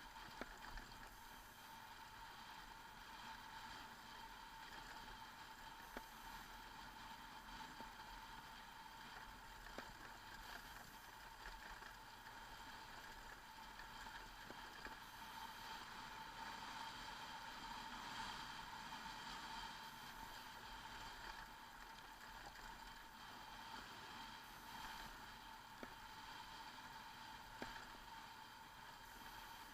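Faint, steady running noise of a motorcycle on the move, holding an even pitch, with a few small clicks.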